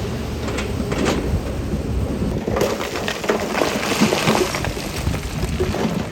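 Loose stone rattling and tumbling over the low rumble of a heavy diesel machine. The clatter thickens into a dense rush about halfway through, then thins out.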